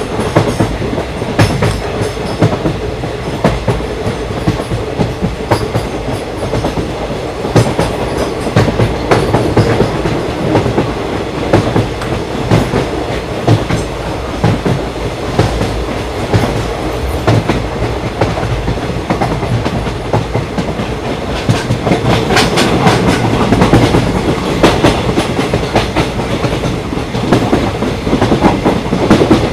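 Indian Railways passenger express train running, a steady rumble with the wheels clattering over the rail joints. The clatter gets louder and busier in the last several seconds.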